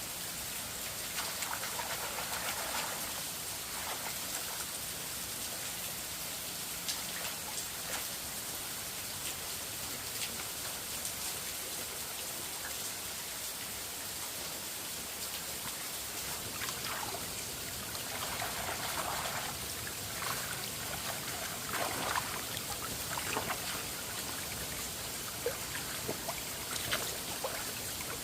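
Steady hiss of falling or running water, with scattered drips and splashes and a few brief louder splashes or rustles.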